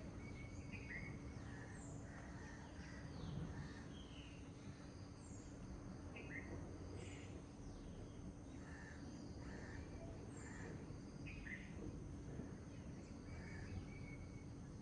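Several songbirds chirping and calling in short, scattered notes over a steady low background noise with a faint hum.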